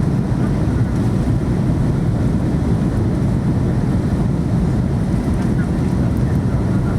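Steady cabin noise inside an Airbus A321neo on descent for landing: an even low rumble of airflow and engines.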